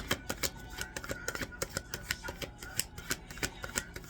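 A deck of tarot cards being shuffled by hand: a quick, irregular run of sharp card clicks and snaps.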